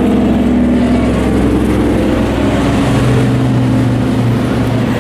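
Engines of several hobby-class race trucks running at speed around the track, a blend of steady engine notes, with one low engine drone growing stronger about halfway through.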